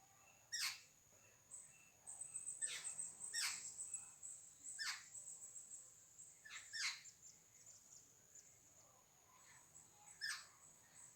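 Birds calling: about six sharp, quickly falling calls, some in quick pairs, over a steady high-pitched trilling background.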